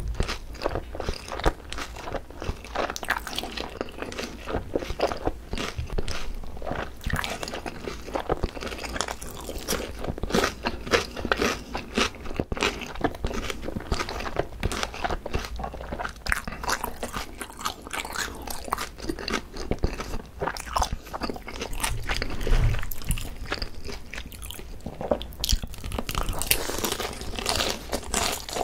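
Close-miked chewing and biting of fried chicken topped with shredded green onion (pa-dak): dense, rapid crunching.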